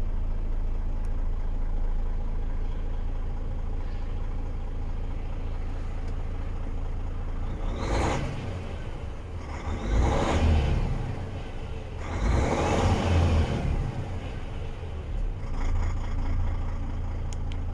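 DAF XF 460 truck's inline-six diesel engine idling steadily, then revved up and let fall back about four times from about eight seconds in, the longest rev near thirteen seconds.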